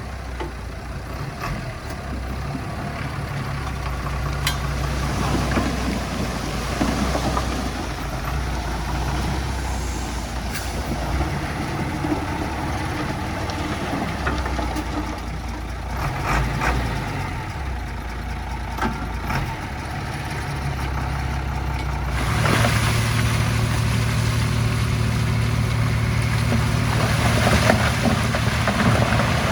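Heavy diesel earthmoving machinery running steadily under load, with scattered sharp clanks. About 22 seconds in, the engine note rises and grows louder.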